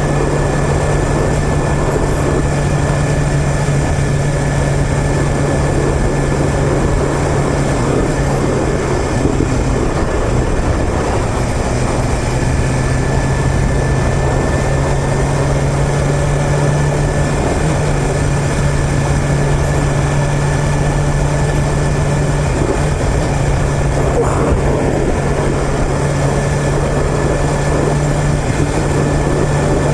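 2021 BMW S1000RR's inline-four engine running at a steady cruise under a constant rush of wind and road noise; its pitch steps up slightly a little past halfway.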